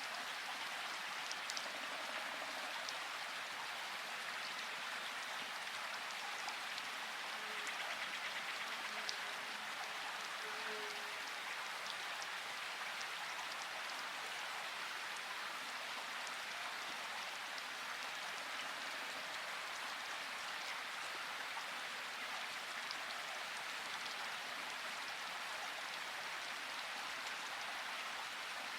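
Steady rain, an even hiss of falling water with scattered individual drops ticking through it.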